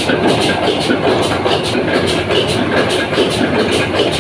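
Heavy machinery running loudly and steadily, with a fast, even clatter of about five beats a second.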